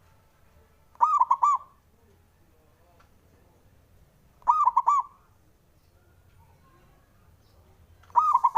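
Zebra dove (perkutut) singing: three short phrases of quick, arching coo notes about three and a half seconds apart, the last cut off at the end.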